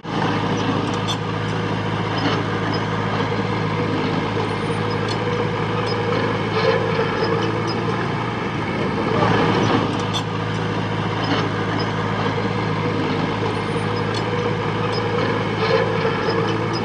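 A heavy construction machine's diesel engine running steadily under work, with a scattering of short clanks and knocks over it and a slight swell in loudness about two-thirds of the way in.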